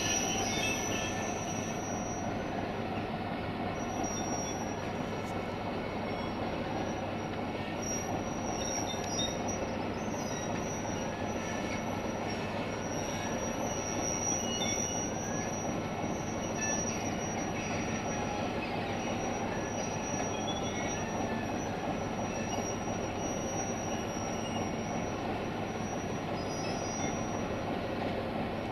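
Train running on the rails with a steady rumble and a thin, high-pitched wheel squeal that comes and goes.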